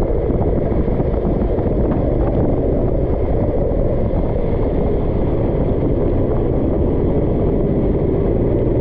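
Racing kart engine running steadily under a loud, rough low rumble, its pitch rising slightly near the end.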